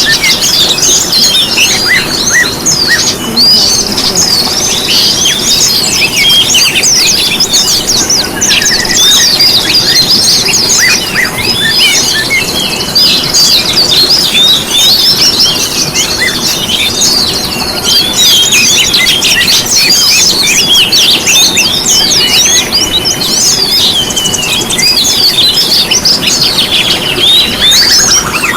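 Dense chorus of small songbirds chirping and twittering without pause, many quick high notes overlapping. It is a mixed songbird recording of the kind played to caged birds to prompt them to sing.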